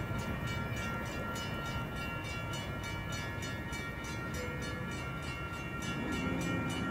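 A train rolling past, its wheels clicking over the rail joints several times a second, with a steady high-pitched ringing on top.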